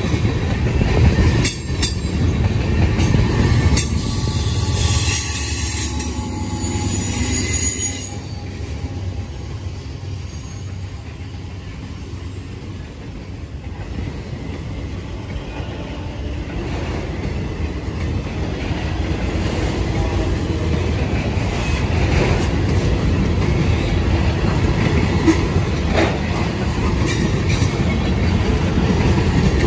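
Freight cars of a long mixed manifest train rolling past, a steady rumble of steel wheels on rail. A faint high-pitched wheel squeal comes in a few seconds in. The rumble eases in the middle and swells again near the end.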